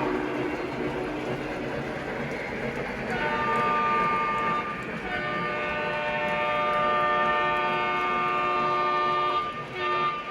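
Sound-equipped model diesel locomotive running, its multi-chime horn blowing about 3 s in: a short blast, a long one of about four seconds, and another near the end.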